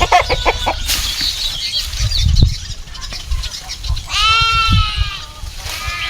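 A goat bleats once, a wavering call about four seconds in. Chickens cluck in the first second, over a low rumble.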